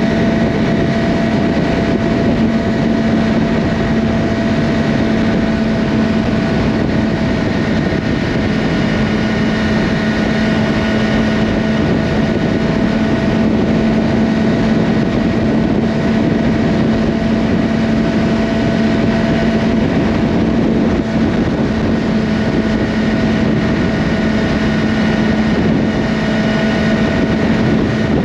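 Yamaha R6's inline-four engine through an Akrapovic slip-on exhaust, running at a steady, unchanging engine speed while cruising, over a constant rush of wind noise.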